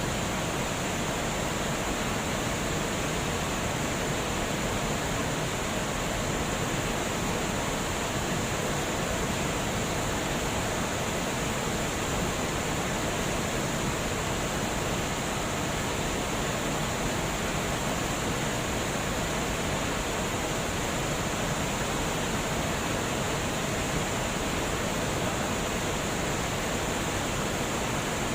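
Water pouring steadily over a dam spillway, an even, unbroken rushing.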